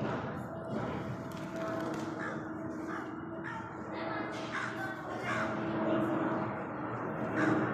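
Short, noisy bird calls, crow-like caws, repeated many times at irregular intervals over a steady low hum.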